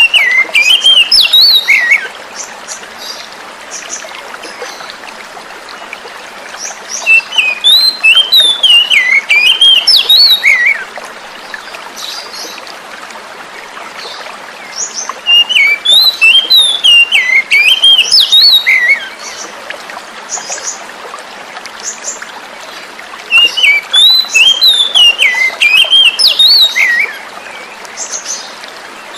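Oriental magpie-robin (kacer) song: bursts of varied, quickly gliding whistled notes about four seconds long, recurring about every eight seconds. Under them runs a steady hiss of flowing water.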